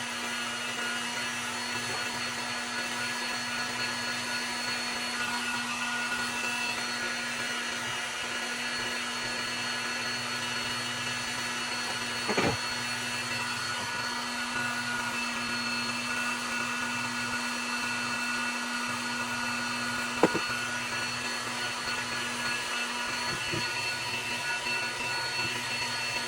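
Heat gun running steadily with an even whir, heating a chainsaw crankcase half until the main bearing loosens and drops out. A couple of brief knocks about twelve and twenty seconds in.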